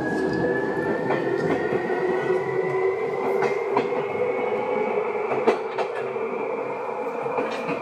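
Seibu 2000-series electric train running and gathering speed, a whine from its traction drive rising slowly in pitch, over steady running noise and scattered clacks of the wheels over rail joints.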